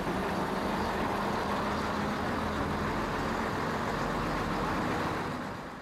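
A train under way, giving a steady running noise of engine and wheels on the track, which fades out near the end.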